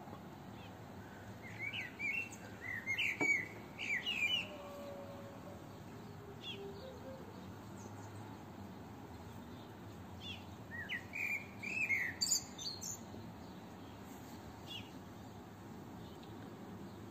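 A songbird singing two short bursts of quick chirping notes, the first about two seconds in and the second about ten seconds in, over a faint steady outdoor hiss.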